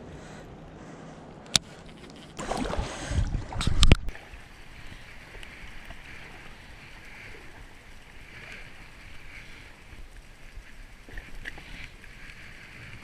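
Kayak on a river: a sharp knock about one and a half seconds in, then a couple of seconds of loud knocking and splashing against the hull, followed by a steady rush of moving water.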